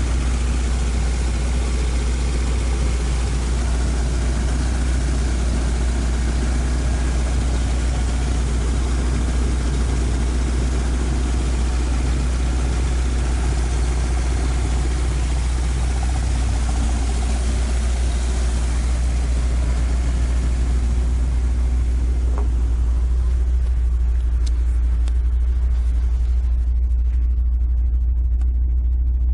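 Toyota AE86's 5-valve (20-valve) 4A-G four-cylinder idling steadily, while its cooling system is bled through a funnel in the radiator filler. From about twenty seconds in the sound turns duller, heard from inside the cabin rather than at the open engine bay.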